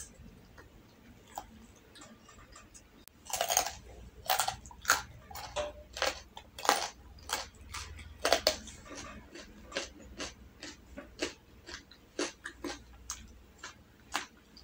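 Close-miked chewing of soft rolled omelette: irregular wet mouth clicks and lip smacks, starting about three seconds in and loudest over the next few seconds.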